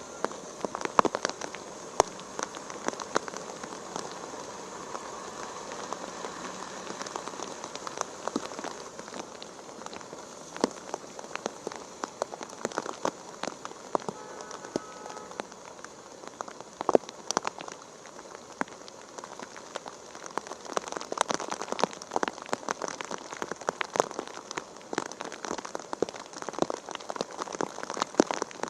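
Rain falling steadily, with frequent sharp clicks of individual drops striking a surface close by.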